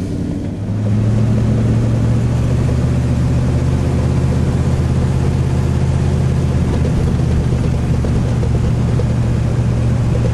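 Vehicle engine and road noise heard from inside the cabin while driving: a steady low drone that gets louder about a second in, as if pulling away or speeding up, then holds steady.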